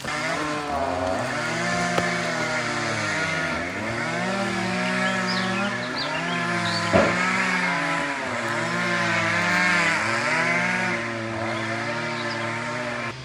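An engine running, its pitch rising and falling in slow waves every couple of seconds, with birds chirping faintly around the middle.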